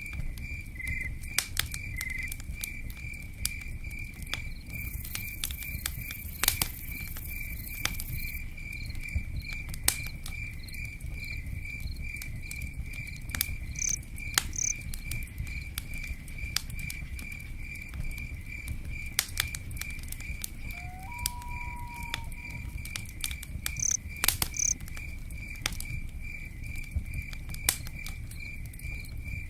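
Crickets chirping in a fast, even pulse over a crackling campfire, with scattered sharp pops and a low rumble underneath. A few brief higher calls come and go.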